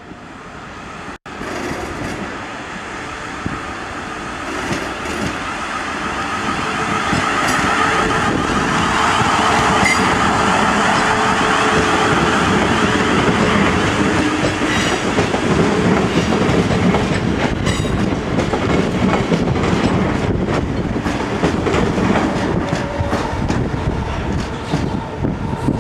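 A South West Trains Class 450 Desiro electric multiple unit running past close by, its wheels clicking over the rail joints. The sound builds over the first several seconds and stays loud while the train goes by.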